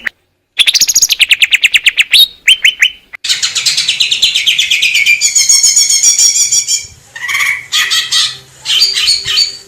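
Green leafbird (cucak ijo) singing. After a brief gap it gives a fast run of sharp downward-sliding chips, about a dozen a second, then a long, dense, rapid trill, and near the end shorter broken phrases.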